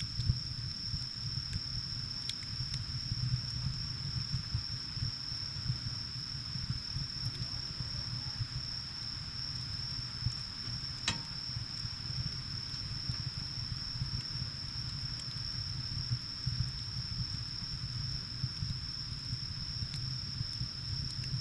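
Wood fire burning with a low steady rumble and a few sharp crackles, the clearest about halfway through, under a continuous high-pitched insect trill that holds one pitch throughout.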